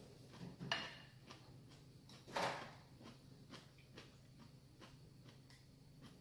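Eating noodles, with two short louder slurping or mouth noises about a second apart, near the start. Faint ticking runs through, about twice a second.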